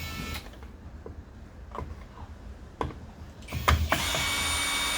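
Power drill-driver briefly spinning at the start, then a few clicks and knocks, then running steadily at one pitch for the last second or so as it undoes a screw on the trimmer's engine.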